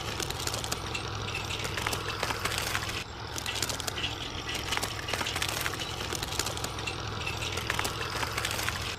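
A small motor running steadily under a dense, continuous clatter of small clicks and rattles, with a brief dip about three seconds in.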